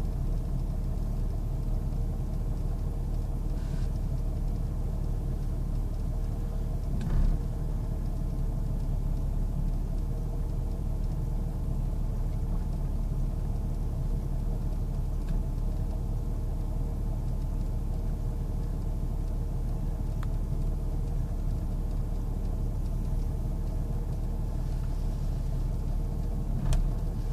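1998 Jeep Grand Cherokee Laredo engine idling roughly, as if it wants to stall out. The owner cannot find the cause. Two brief louder knocks come through, one about a quarter of the way in and one near the end.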